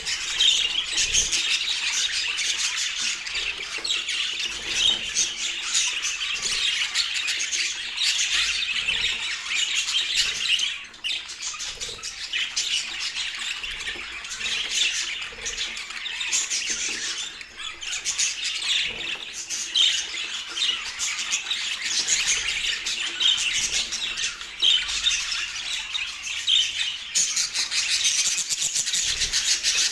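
Budgerigars chattering and squawking without pause, a dense stream of chirps and warbles, with brief lulls about 11 and 17 seconds in.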